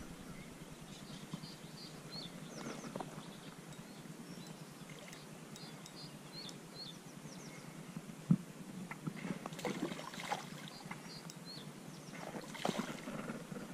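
Small birds chirping on and off over a low outdoor hiss. A few clicks and rustles of handling come in now and then, with one sharp knock about eight seconds in.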